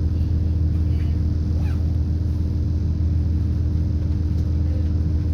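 Steady low rumble of a British Rail Class 170 Turbostar diesel multiple unit heard from inside the carriage: its underfloor 13.6-litre MTU turbo diesel and running gear, with a few faint brief high squeaks over it.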